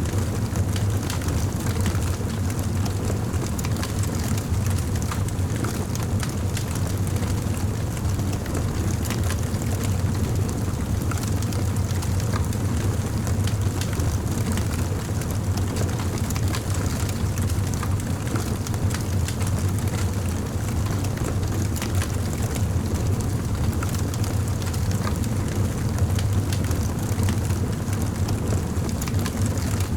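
Campfire burning: frequent small crackles and pops of burning wood over a steady low rumble.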